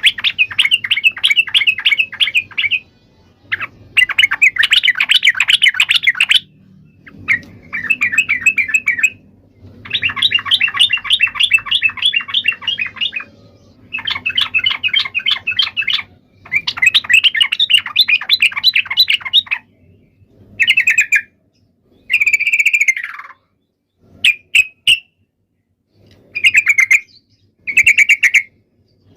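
Yellow-vented bulbul song: loud, fast bubbling chatter phrases of rapid repeated notes, each lasting one to three seconds, separated by short pauses. Near the end the phrases turn to shorter calls, one of them sliding down in pitch.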